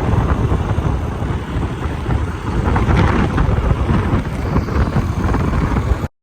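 Jet aircraft passing low overhead: a loud, rough engine roar, heaviest in the low end, that cuts off suddenly about six seconds in.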